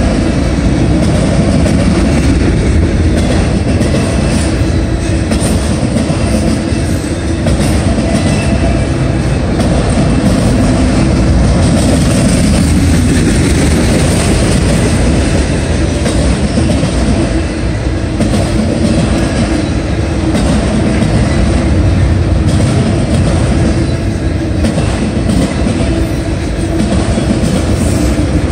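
CSX autorack freight cars rolling past: a loud, steady rumble of steel wheels on the rails with clickety-clack wheel clatter.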